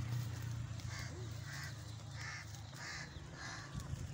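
A bird calling in a run of about five short, harsh caws, evenly spaced, over a low steady hum.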